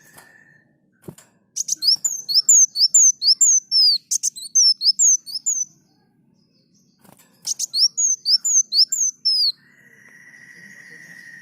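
Sunbird (kolibri muncang) singing two fast phrases of sharp, high, downward-slurred notes, about eight a second, with a pause between them. Near the end a fainter steady mid-pitched tone with a low hum comes in.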